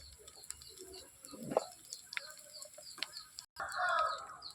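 A bird calling loudly for under a second near the end, over a steady run of faint high chirps repeating about three times a second.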